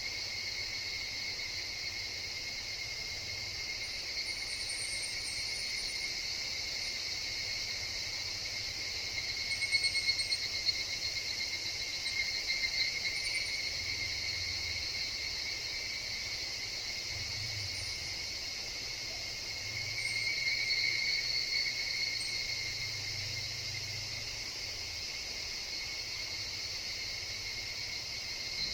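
A chorus of higurashi (evening cicadas) calling continuously in a steady high-pitched drone, swelling a few times as calls overlap.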